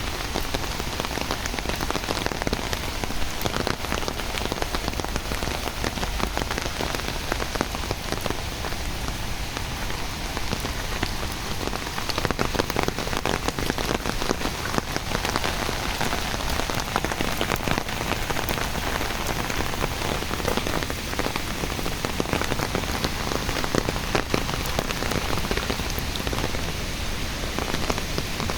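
Steady rain falling, with a thick patter of individual drops striking surfaces close by.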